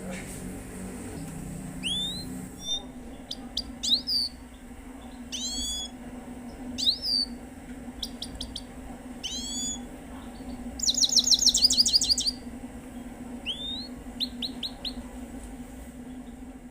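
Himalayan goldfinch singing: separate rising whistled notes and short quick runs of notes, with a loud rapid trill about eleven seconds in. A steady low hum runs underneath.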